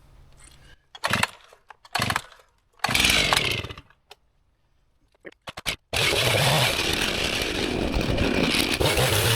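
Chainsaw being started: a few short bursts as the cord is pulled, then about six seconds in the two-stroke engine catches and keeps running steadily.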